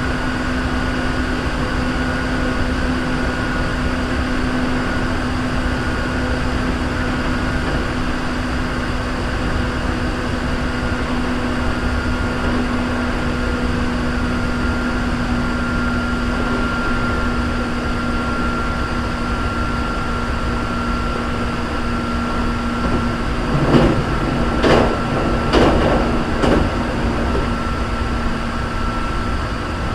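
Hankyu 3300 series electric train running between stations: a steady rumble of wheels on rail with a held hum. Near the end come four louder knocks, about a second apart.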